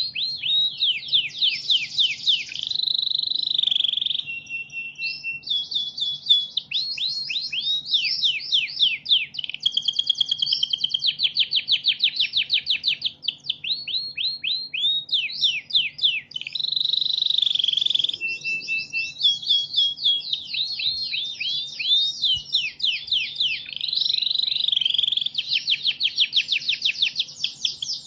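Domestic canary singing without a break: fast trills of rapidly repeated sweeping notes, switching from one rolling phrase to the next, with a couple of short steady whistled notes.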